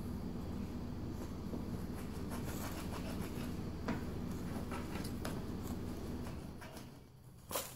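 A pet bird scratching and rubbing at something with its beak, in faint scratchy strokes over a steady low hum that fades out near the end. A couple of sharp clicks come right at the end.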